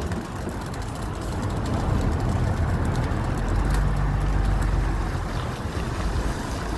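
A motor running steadily with a low rumble, somewhat louder in the middle.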